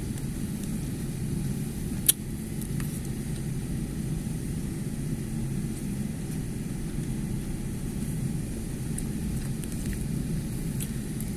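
A steady low rumble with a few faint clicks and one sharp click about two seconds in.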